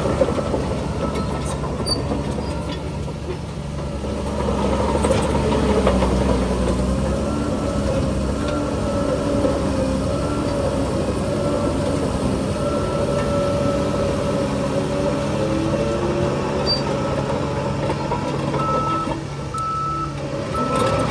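Heavy diesel earthmoving machinery working, engines running with shifting pitch, and a reversing alarm beeping in short pulses near the end.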